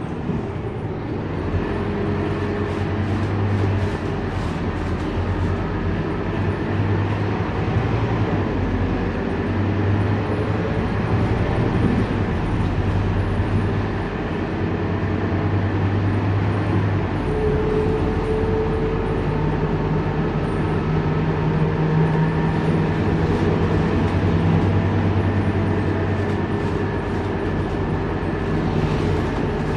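Scania K230UB single-deck bus driving, its diesel engine running steadily with the engine note changing pitch, settling on a higher tone in the second half.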